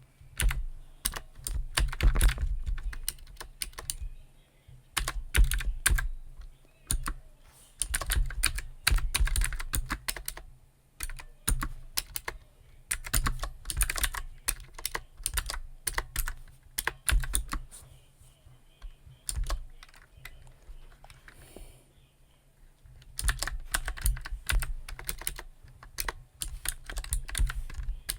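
Computer keyboard typing: rapid key clicks in runs of a few seconds, with short pauses between runs.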